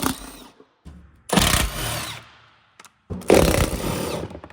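Power tool running in two short bursts, each tailing off as it spins down, backing out the 10mm bolts that hold an underbody panel.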